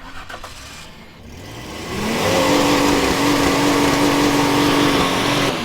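Ford Ranger pickup's engine revving up over about a second, held at high revs for about three seconds, then dropping off near the end. The revving goes with a transmission that is ruined in the owner's view.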